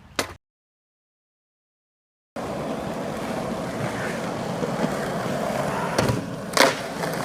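Dead silence for about two seconds, then skateboard wheels rolling on pavement with a steady rushing noise, and two sharp clacks of the board about six seconds in.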